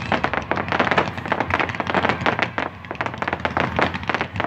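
Aerial fireworks going off in a rapid-fire barrage: a dense, continuous run of sharp pops and crackles, several a second, easing briefly about three seconds in.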